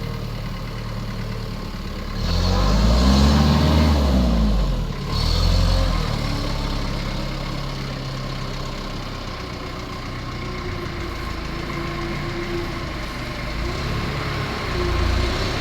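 Isuzu C240 four-cylinder diesel of a forklift idling, revved up and back down once about two seconds in, with a shorter blip just after, then settling back to a steady idle.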